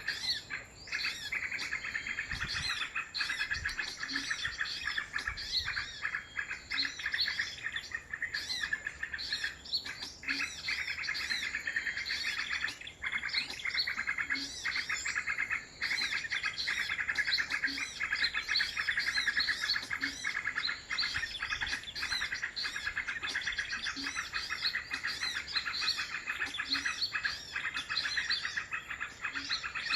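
Many small birds chirping and twittering densely and without pause, over a thin steady high tone.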